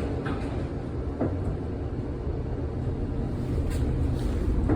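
1948 Philadelphia PCC streetcar pulling away from a stop, running with a low rumble that grows slowly louder, with a single click about a second in.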